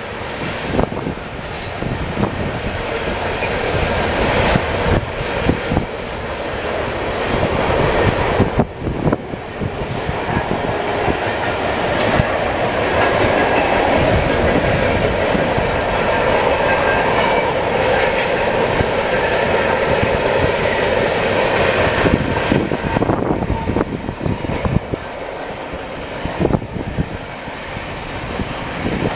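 Freight train rolling past, its cars' wheels clacking over the rail joints.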